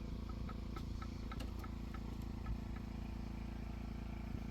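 A steady low motor drone, with a run of light clicks and taps during the first couple of seconds.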